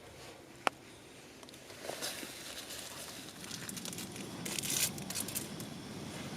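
Rustling and crinkling, like something dry being handled, with one sharp click shortly before the first second and denser rustling in the second half.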